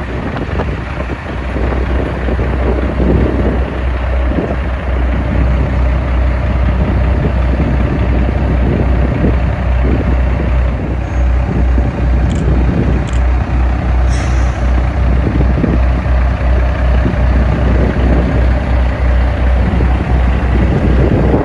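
Semi-truck diesel engine running, a steady deep rumble with a few short clicks around the middle.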